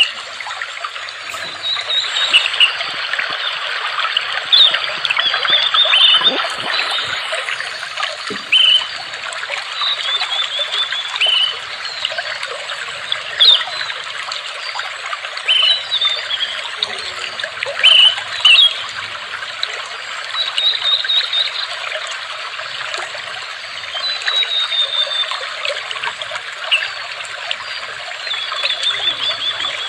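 Water trickling steadily, with small birds chirping on and off over it: short high calls and a few quick trills.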